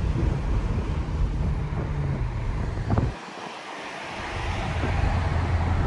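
Straight-piped Infiniti Q50's exhaust running with a low rumble, a short sharp pop about three seconds in, then the low end drops away for about a second before a steady low drone builds back louder.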